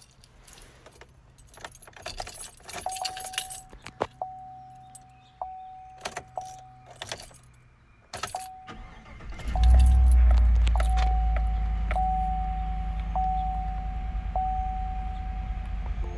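Keys jangling and clicking, with a steady warning-chime tone sounding on and off. About nine and a half seconds in, the Chevrolet Silverado pickup's engine starts with a loud rumble and settles into a steady idle.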